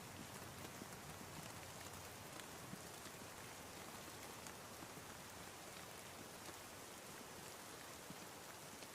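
Steady, faint rain, with scattered single drops ticking.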